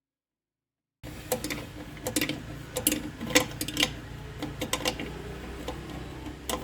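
Irregular clicks and metallic taps of hand tools at work, over a low steady hum, starting about a second in after a cut of total silence.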